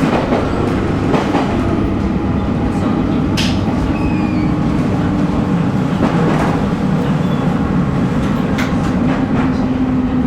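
JR 719 series 5000-subseries electric train running, with its MT61 traction motors and gears giving a steady whine over wheel-on-rail rumble, and scattered sharp clicks from the rails. The whine drifts slightly lower in pitch in the second half.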